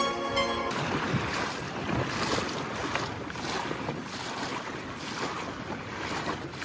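Background music cuts off suddenly less than a second in, giving way to wind buffeting the microphone and water sloshing and splashing, as from a small sailing boat on open water.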